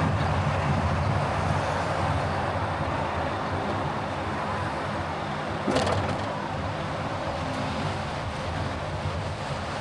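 Steady road and engine noise from a car being driven, with one short sharp knock a little after the middle.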